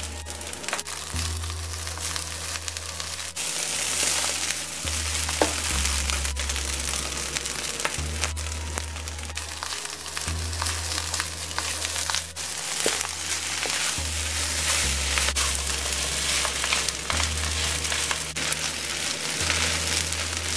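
Rice frying in hot oil in a wok, sizzling steadily as red tomato sauce is stirred through it with a wooden spatula, with scattered clicks and scrapes of the spatula on the pan. Background music with a bass line that changes note every second or two plays underneath.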